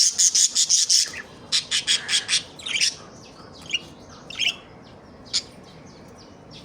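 Budgerigar chirping: quick runs of short, high chirps for the first few seconds, then scattered single calls.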